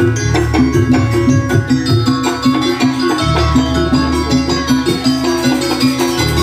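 Ensemble music for a Banyuwangi barong and jaranan performance: drums and pitched percussion play a fast, steady repeating pattern.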